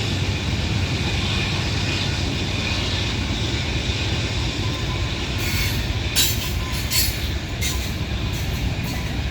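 CSX freight train rolling past with a steady low rumble and a faint high wheel squeal. From just past halfway there is a run of sharp metallic clicks and clanks.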